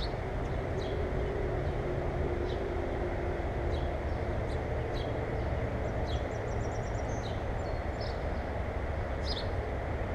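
Small birds at a feeder giving short high chirps every second or so, with a quick trill about seven seconds in, over a steady low rumble.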